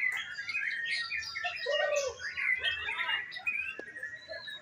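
Many caged songbirds singing at once, a dense overlapping mix of quick chirps, trills and whistles.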